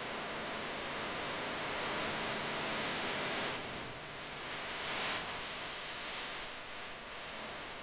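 Water from a garden hose spraying onto a car, a steady hiss that swells twice, most strongly a couple of seconds in and again briefly about five seconds in.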